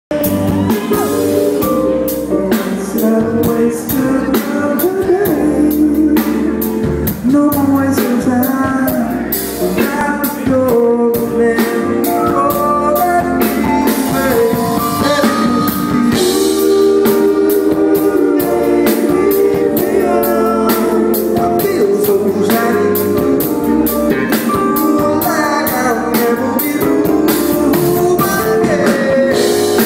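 Live soul band playing with singing over a steady drum-kit beat.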